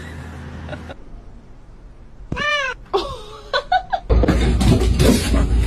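A cat meows once in a long rising-then-falling call about two seconds in, followed by a few shorter meows. A loud rumbling noise cuts in suddenly about four seconds in.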